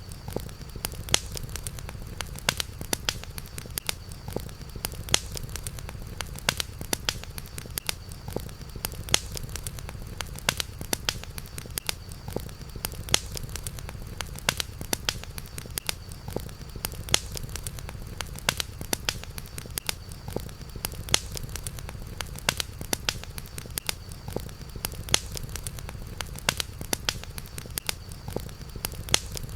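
Campfire crackling with frequent sharp pops over a steady low rumble, and a faint steady high hum.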